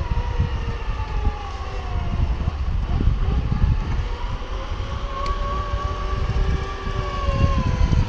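An engine running with a whining tone that slowly falls, rises again about halfway through, then falls, over a heavy low rumble.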